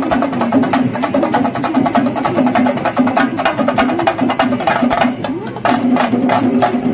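Kerala temple-festival percussion ensemble: chenda drums beaten in a fast, dense stream of sharp strokes, with a wavering, sustained pipe melody over them.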